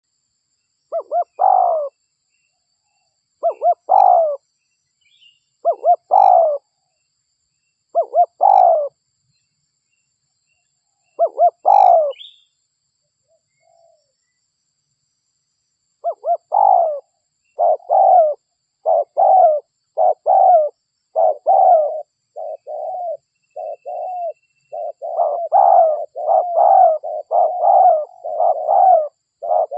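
Spotted dove (derkuku) cooing. Five separate coo phrases come about every two and a half seconds, then after a pause of a few seconds a quicker run of coos starts near the middle and grows denser towards the end.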